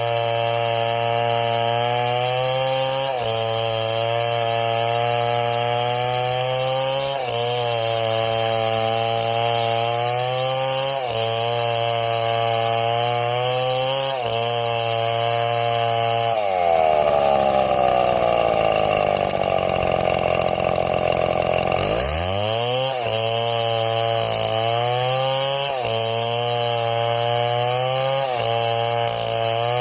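Chainsaw engine running steadily, its pitch dipping and recovering about every four seconds. About two-thirds of the way through, the pitch jumps and then falls away over several seconds before climbing back.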